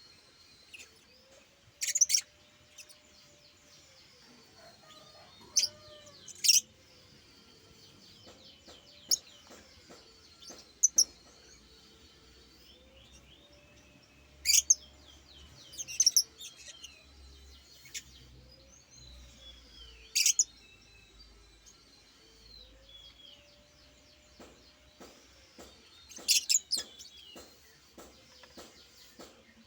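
A pet bird chirping: loud, sharp single chirps every few seconds, with soft, high warbling chatter in between.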